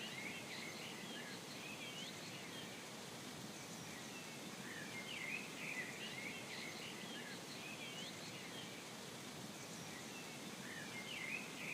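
Faint outdoor background with small birds chirping: short, repeated calls, some sweeping quickly up or down in pitch, scattered all through.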